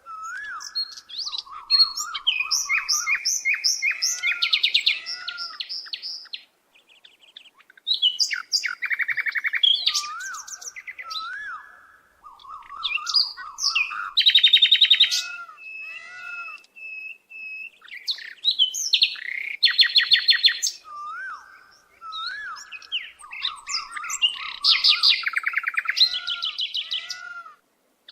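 Songbird singing: phrases of rapid chirps, trills and short rising-and-falling whistles, separated by brief pauses.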